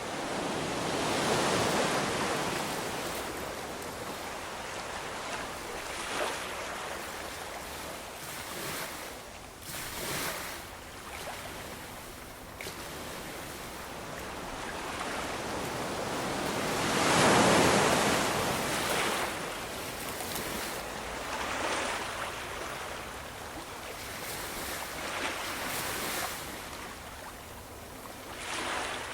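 Ocean waves breaking and washing on a shore: a strong surge about a second in and a bigger one about two thirds of the way through, with smaller washes and steady hiss between.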